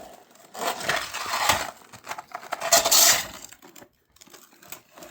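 Shovel scraping ice and packed snow in two strong strokes, with a fainter third scrape near the end and icy clinking and crunching.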